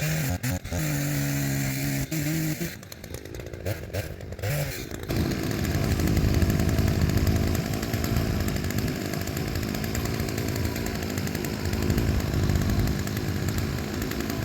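Chainsaw bucking logs: the engine runs at a steady pitch, changes pitch for a few seconds, then from about five seconds in runs louder and rougher as it cuts through a log.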